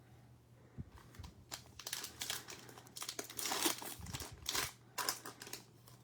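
Plastic wrapper of a Select football card pack crinkling and tearing open, in a run of irregular rustles from about a second and a half in until near the end.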